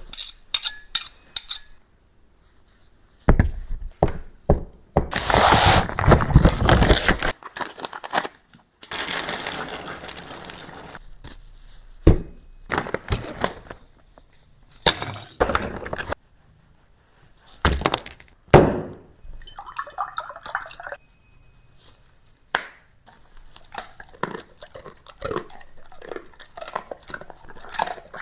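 A dog eating: irregular crunching and chewing, with clinks and knocks of dishes, and a louder stretch of noisy crunching a few seconds in.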